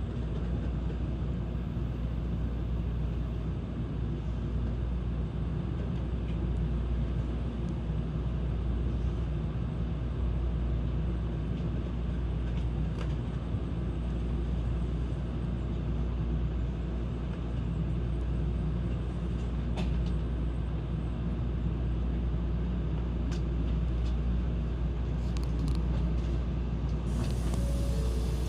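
Tokaido Shinkansen train running on the line, a steady low rumble with running noise that holds even throughout.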